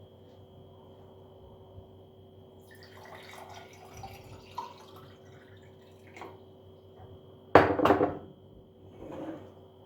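Kitchen handling sounds: light clinks and rustling of dishes and glassware, then a loud clatter of several quick strikes about three-quarters of the way through, over a faint steady hum.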